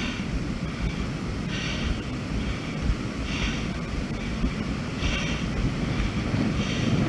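Wind buffeting the camera microphone on an exposed cliff trail, a steady low rumble. A short hiss comes back about every second and a half to two seconds.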